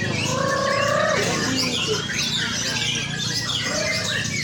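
Several white-rumped shamas singing at once, a tangle of quick whistles and chirps, with one longer, lower whistle in the first second. A steady low background murmur runs underneath.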